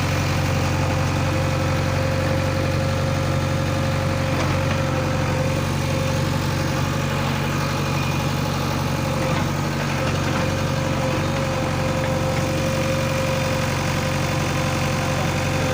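Heavy diesel engine idling steadily, holding an even pitch throughout.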